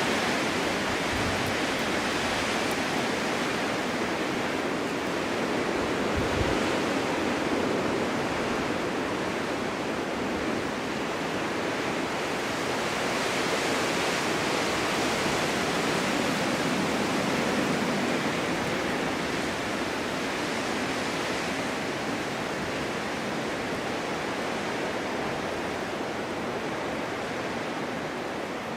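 Steady winter wind gusting, a broad rushing that swells and eases slowly over several seconds.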